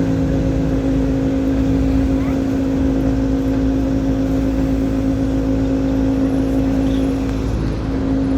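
Tatra T6B5SU tram heard from aboard: a steady electrical hum over a low rumble, unchanging throughout.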